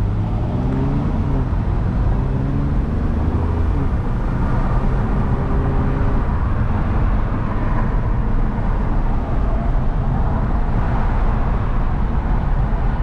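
Hyundai Genesis Coupe's 3.8-litre V6 engine and tyre and road noise while driving. The engine pitch rises and falls over the first several seconds, then settles into a steady drone of road noise.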